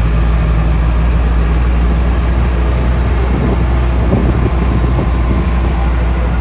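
Tour bus engine running with a steady low drone, heard from inside the moving bus.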